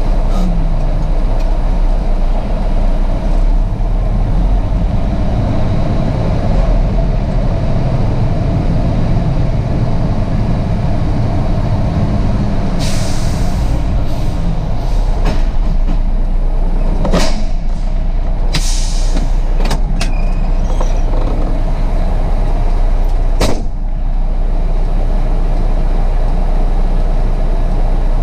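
Semi truck's diesel engine running steadily with a deep rumble, with several short hisses of air from the air brakes about halfway through and once more near the end.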